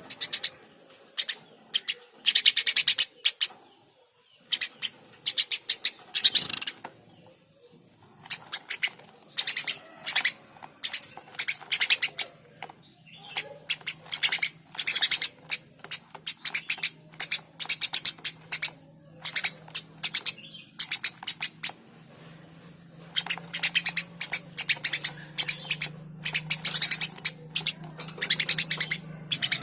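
Eurasian tree sparrow chirping busily in rapid runs of sharp, high chirps, with short pauses between the bursts.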